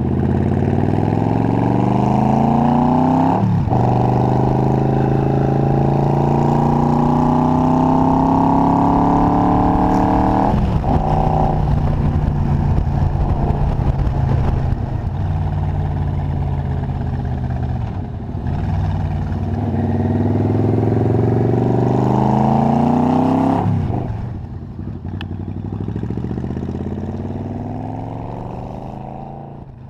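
Yamaha XVZ1300 Royal Star's V4 engine pulling through the gears on the move: the pitch climbs, drops sharply at an upshift, climbs again and drops at a second upshift, then holds steady. It climbs once more before falling away as the throttle closes, and fades out at the end.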